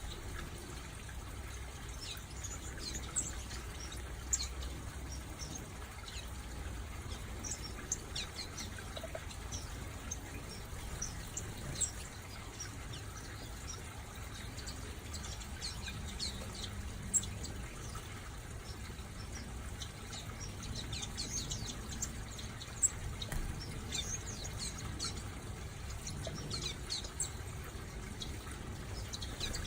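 A mixed flock of small aviary finches and waxbills chirping: many short, high calls scattered throughout, over a steady low background noise.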